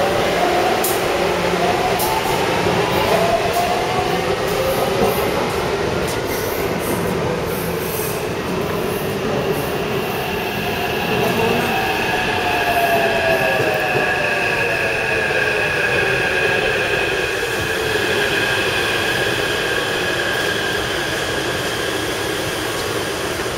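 Taipei Metro C301-series train running between stations: the traction motors whine in tones that glide up and down, and about halfway through a steady high squeal comes in over the running noise.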